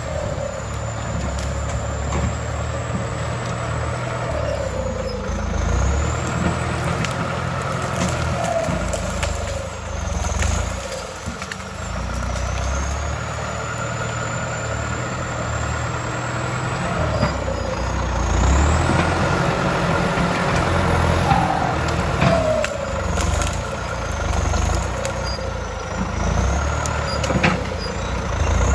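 Heavy diesel engine of a work machine running under varying load, its low rumble swelling and easing every few seconds, with a high whine that rises and falls along with it.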